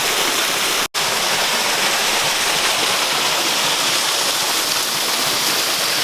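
Small waterfall pouring over rocks: a steady rush of water, cut off for an instant about a second in.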